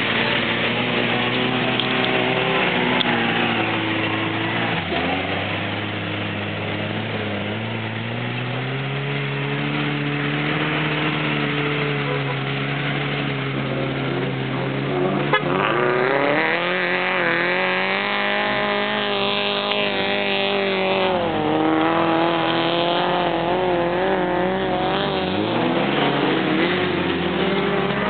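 Four-wheel-drive vehicle's engine revving up and down through mud, its pitch repeatedly rising and falling, with a wavering, uneven stretch in the second half.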